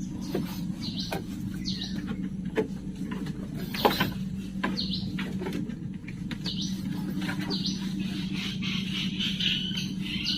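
Short, high bird chirps repeating roughly once a second, over a steady low hum.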